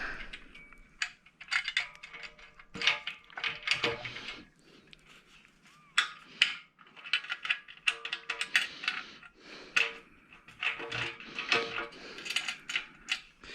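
Metal frame parts and fasteners clinking and knocking irregularly as pieces are fitted together and bolted by hand, some clinks ringing briefly.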